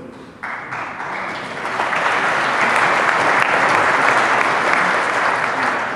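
Press-conference audience applauding, starting about half a second in, swelling and then fading away near the end.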